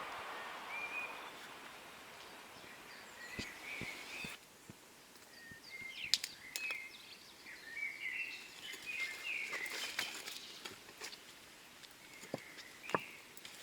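Small birds chirping and calling, many short high chirps scattered through, over the fading hiss of a train that has just passed in the first couple of seconds. A few sharp clicks are heard along with the chirps.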